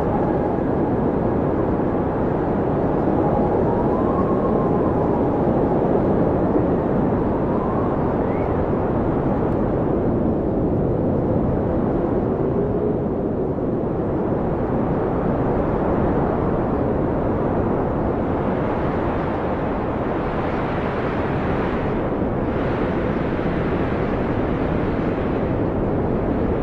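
Blizzard wind blowing steadily with a deep rumble, faint howling whistles rising and falling in pitch early on, and stronger gusts from about two-thirds of the way through.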